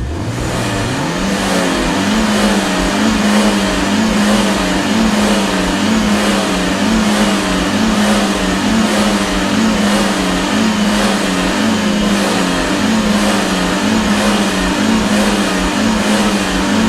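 Car engine revving up about a second in, then held at raised revs that rise and fall about twice a second as the gas pedal is pumped in quick, light presses.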